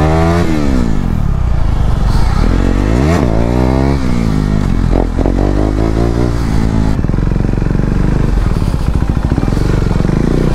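KTM Duke 390's single-cylinder engine on the move: it revs up and drops back twice in the first few seconds as the bike accelerates through the gears, then runs lower and steadier as the motorcycle slows down.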